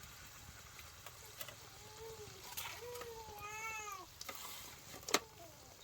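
A cat meowing: a few drawn-out meows that rise and fall in pitch, with a sharp click about five seconds in.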